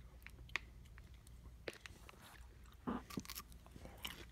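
Chewing a smoked bacon-and-cheddar beef stick: faint mouth sounds with scattered small clicks, a little louder about three seconds in.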